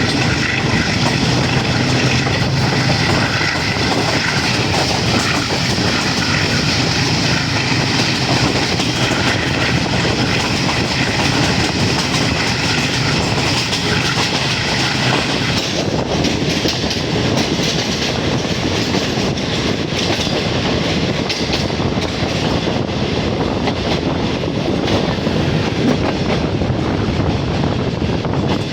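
Passenger train running along the track: a steady loud rumble of the rolling train and its wheels on the rails, with a steady engine hum in the first few seconds. The sound turns duller about halfway through.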